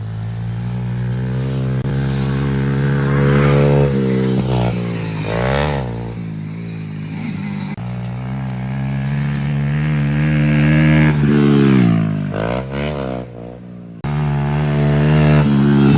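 Pit bike engine running hard under throttle, revs held high, then dropping and climbing again twice, about five seconds in and again near thirteen seconds. The sound changes abruptly twice, near eight and fourteen seconds.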